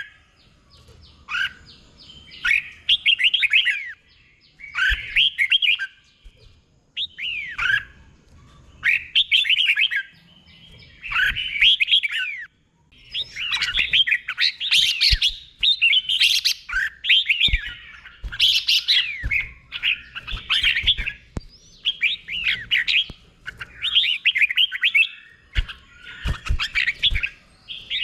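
Red-whiskered bulbul singing short warbled phrases over and over, about one every second or two, running almost back-to-back from about halfway. A few faint low thumps sound among them.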